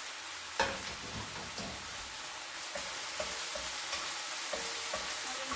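Food sizzling as it fries in a pan, a steady hiss, with light knocks and clicks of stirring; the loudest knock comes about half a second in.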